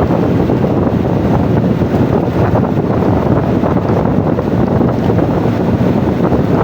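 Loud, steady wind buffeting the microphone, a dense low rumble with no pitched engine tone.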